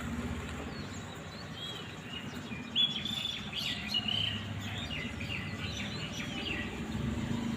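A songbird singing a quick, chattering run of chirps and short whistled notes, over a steady low rumble of background noise.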